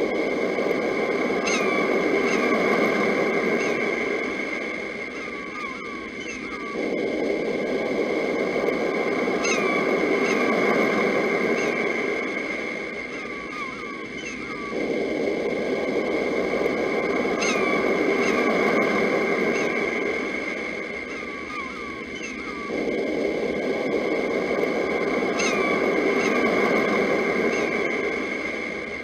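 Sea waves washing in and drawing back, swelling about every eight seconds, with birds chirping over a steady high-pitched tone.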